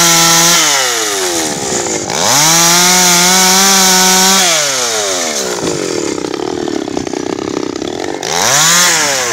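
Chainsaw engine revving up and dropping back repeatedly. In the second half, for about three seconds, the engine note sinks and a rough rasping takes over as the chain cuts into wood, then the saw revs up again near the end.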